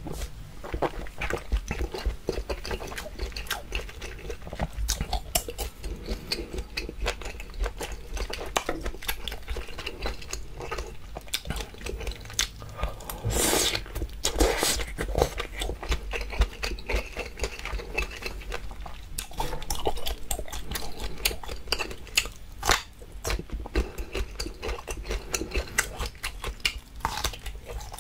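Close-miked chewing of roasted wagyu steak and enoki mushrooms: a dense run of wet mouth clicks and smacks, with a short louder slurp about halfway through.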